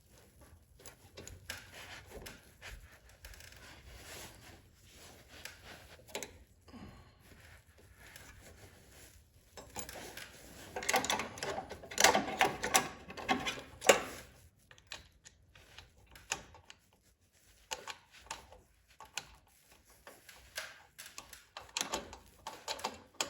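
Hand work on a snowblower engine: metal parts and hand tools clicking and clattering in irregular runs, busiest and loudest in the middle, with a sharp click near the end of that run.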